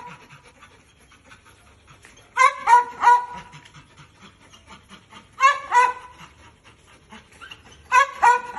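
Malinois dog giving short, high-pitched yips or barks in quick runs of three or four, three times over, with pauses between.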